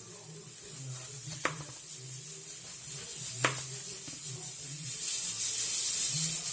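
Two sharp knocks of a kitchen knife on a cutting board, about two seconds apart, as an onion is cut. Near the end a rasping, scraping noise builds up.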